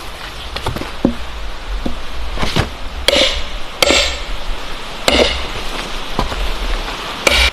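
A series of sharp, heavy knocks at an uneven pace, four of them loud and several lighter ones between, over a steady hiss and low rumble.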